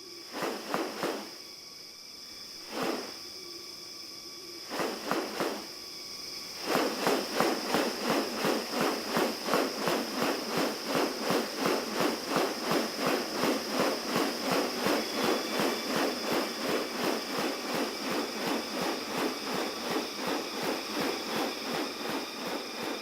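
Insects buzzing with a steady high-pitched drone. A few separate clicks come in the first seconds, then from about seven seconds in a fast, even train of sharp rattling clicks.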